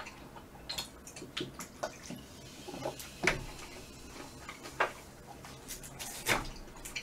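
Close-miked chewing and wet mouth clicks and smacks of someone eating, with a few sharper clicks standing out.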